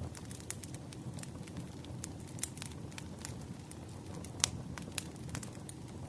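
Burning firewood crackling, with sharp irregular snaps and pops over a low steady rumble; the loudest pop comes about four and a half seconds in.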